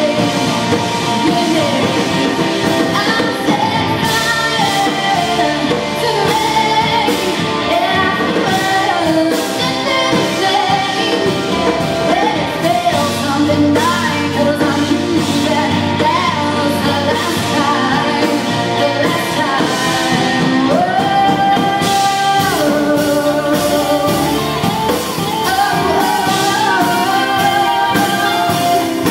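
A singer performing a pop-rock song with band backing of guitar and drums, sung melody held and shifting over a steady beat.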